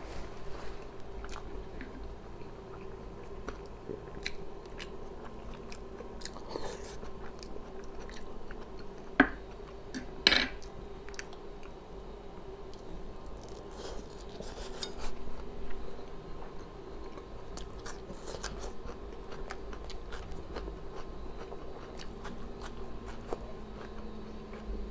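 Close-miked chewing and biting of grilled shashlik (skewered meat chunks), mouth sounds and small wet clicks, with two sharper clicks about nine and ten seconds in. A faint steady hum sits underneath.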